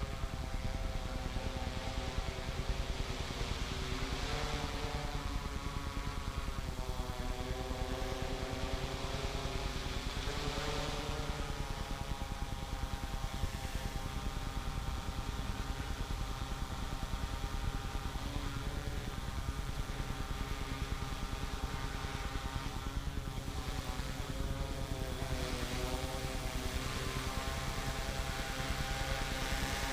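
Yuneec quadcopter's propellers whining steadily in flight, the pitch of the whine sliding up and down several times as the rotor speeds change while it is flown and brought down.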